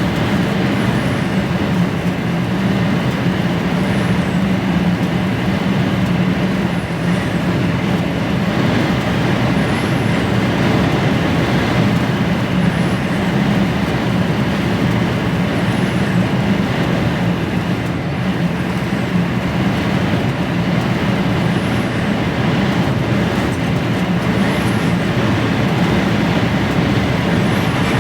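HGV lorry's diesel engine pulling steadily under load up a long climb, heard from inside the cab over constant road noise.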